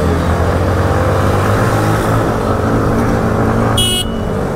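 Motorcycle engine running with a wavering, uneven note as its fuel runs out; the rider says it has started to sputter. A short horn beep sounds near the end.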